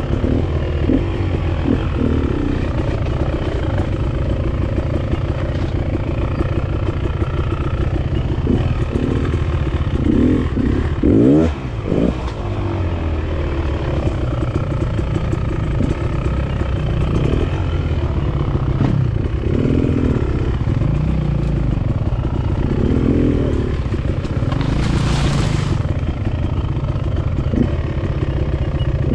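Enduro dirt bike engine running as the bike is ridden on trail, the revs rising and falling with the throttle, including a quick sharp rev about eleven seconds in. There is a brief hiss later on.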